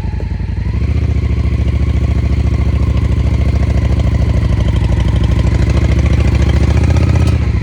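Motorcycle engine running with an even firing beat. The revs rise a little under a second in, hold steady, and drop back shortly before the end.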